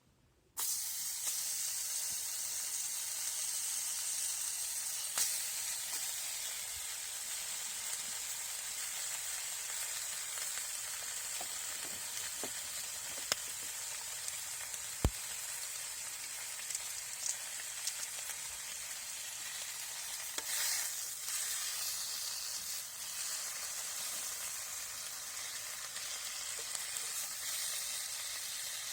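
Food frying in a pan: a steady sizzle with a few sharp pops, starting abruptly about half a second in.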